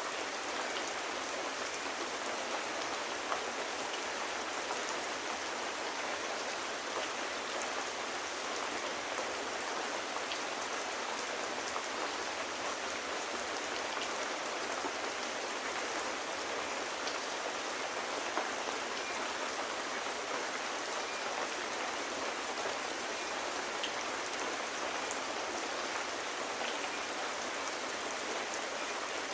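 Steady rain falling on a surface, an even hiss with occasional light ticks of individual drops.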